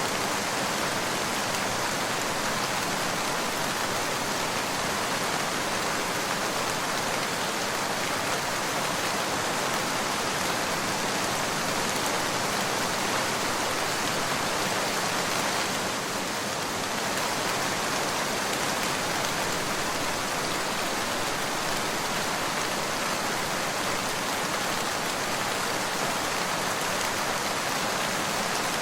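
Steady heavy rain falling, a dense even hiss of drops with no thunder.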